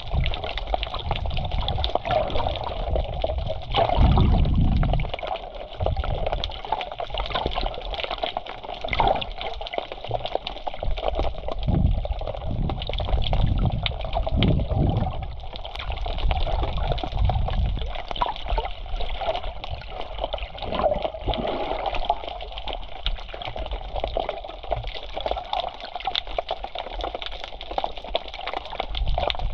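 Black Sea water washing and gurgling at the shoreline. It runs on steadily, with several louder low surges; the strongest comes about four seconds in.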